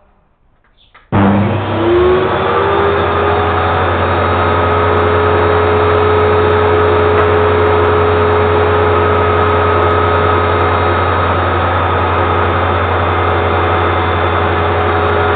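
Electric power saw motor switched on about a second in, spinning up with a rising whine and then running steadily at full speed, free-running rather than cutting.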